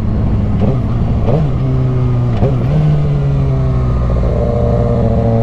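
Motorcycle engine running while riding, its pitch briefly dipping and recovering twice, about one and two and a half seconds in, then holding steady.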